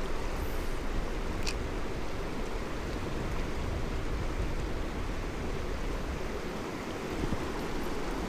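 Mountain stream flowing steadily: a constant rush of water.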